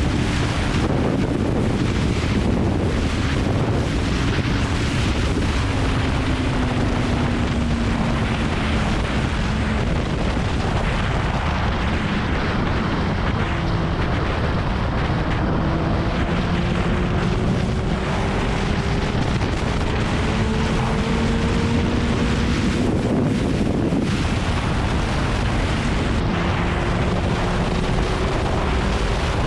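Wind rushing over the microphone on a moving Kawasaki ZX-9R sportbike, with the inline-four engine faintly underneath. The engine note rises and falls several times with throttle and gear changes.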